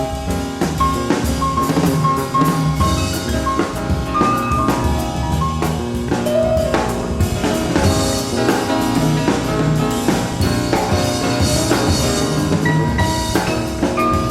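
Live jazz trio playing an instrumental passage: piano lines over a busy drum kit with snare and bass drum, and bass underneath.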